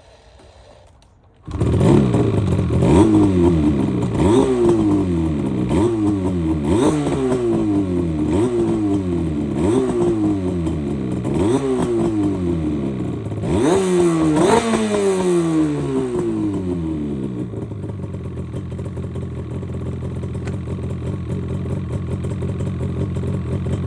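Yamaha RZ250R two-stroke parallel-twin engine starting about a second and a half in, then revved in about ten short throttle blips, each rising sharply and falling back, one every second or so. It then settles into a steady idle for the last six seconds.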